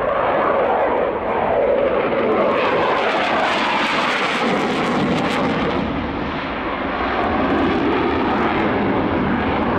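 Saab JAS 39 Gripen fighter's single Volvo RM12 jet engine heard during a flying display: a loud, steady jet noise that swells over the middle few seconds and eases a little after.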